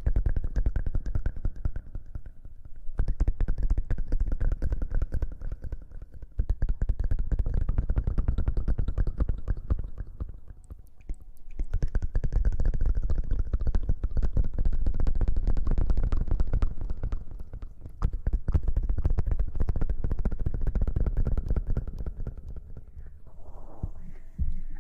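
Close-up ASMR rubbing and rustling directly on the microphone, a dense crackling scrub with a heavy low rumble, going in stretches of a few seconds with brief pauses between.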